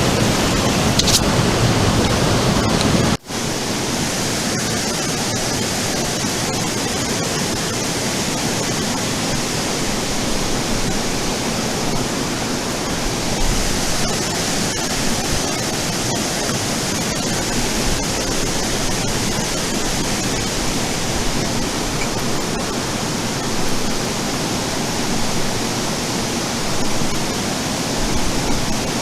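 Mountain stream water rushing steadily. About three seconds in the sound breaks off for an instant and carries on a little quieter.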